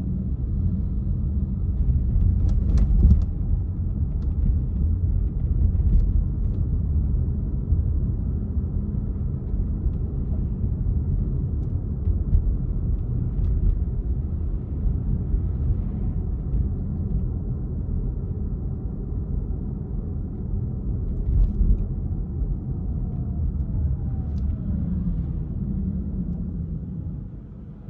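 A car driving on city streets: a steady low rumble of road and engine noise, with a few sharp clicks or knocks along the way.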